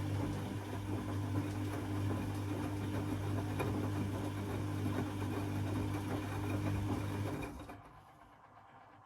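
Beko WA 1050 washing machine's motor running with a steady hum and mechanical rumble, then stopping about seven and a half seconds in.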